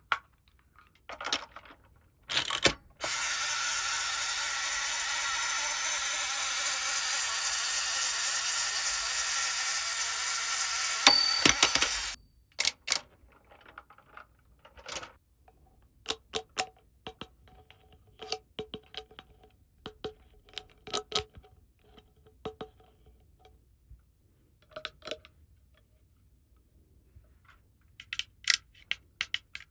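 Small plastic toy parts clicking and tapping as they are handled, many short sharp clicks, some with a brief plastic ring. A steady hiss runs for about nine seconds in the first half and stops abruptly.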